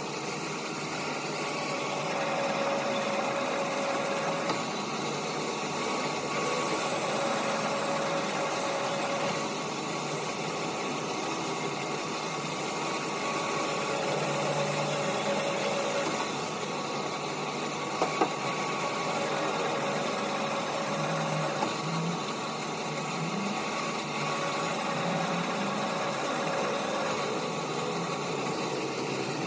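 A machine running steadily, with faint steady tones that come and go and two sharp clicks about 18 seconds in.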